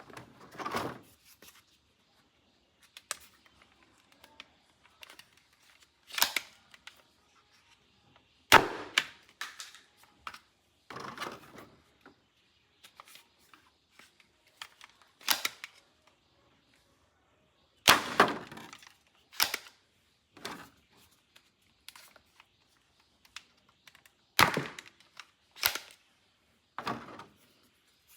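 Plastic toy pieces being handled: about a dozen sharp clicks and clacks at irregular intervals, some followed by a brief rattle.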